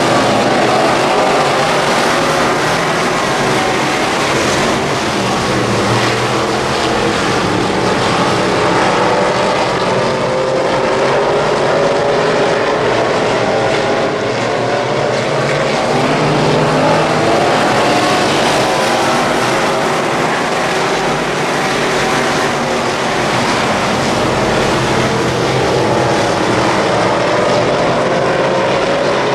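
Midwest Modified race car's V8 engine running hard at racing speed, its pitch rising and falling over and over as the throttle opens and closes.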